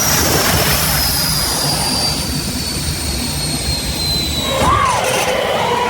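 Jet turbine engine running with a steady roar and a high whine that slowly falls in pitch.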